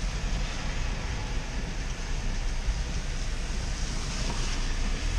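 A vehicle driving along flooded streets: a low engine and road rumble under a steady rushing wash of noise.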